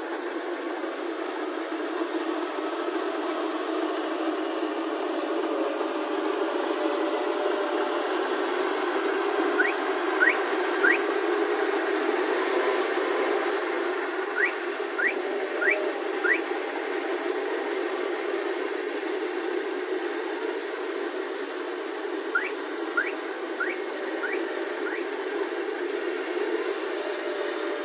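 A Kubota rice combine harvester running with a steady machine drone. Over it come short, quick rising whistled chirps in spaced groups: three about a third of the way in, four near the middle, and five near the end.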